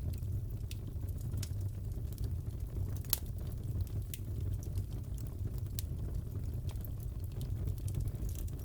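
Crackling fireplace: a steady low rumble of burning logs with scattered sharp pops and snaps, one louder pop about three seconds in.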